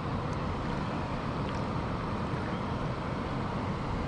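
Steady wind rumbling on the microphone, with a few faint ticks.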